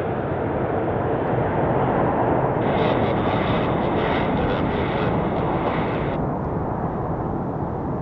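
Jet engine noise from a landing Boeing 777-300ER: a loud, steady rushing that swells in the middle and eases off near the end.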